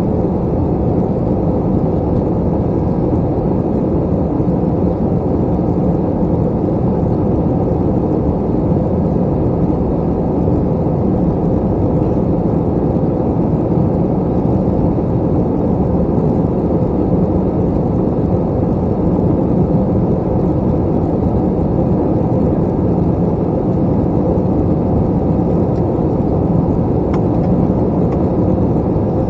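Steady cabin noise inside an Airbus A321 airliner: a constant drone of the jet engines and rushing air, even and unchanging.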